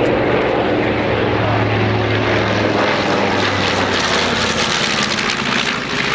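Piston-engine propeller warbird flying by, its engine drone steady and loud. The low hum fades about three seconds in, leaving a wider rushing noise of the passing aircraft.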